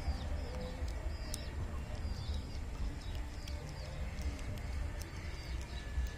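Small birds chirping repeatedly, short quick notes every half second or so, over a steady low rumble, with scattered sharp clicks.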